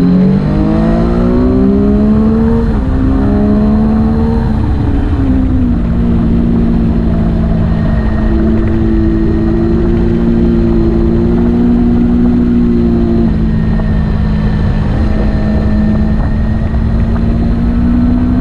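Motorcycle engine under way: its pitch climbs and steps down a few times in the first six seconds, as it goes up through the gears, then holds steady at cruising speed, over a constant low rumble.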